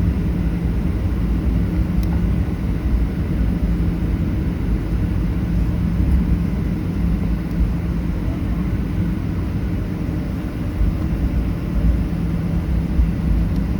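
Steady low rumble with a constant hum inside the cabin of a Boeing 737-800, its engines at low power with no rise in thrust.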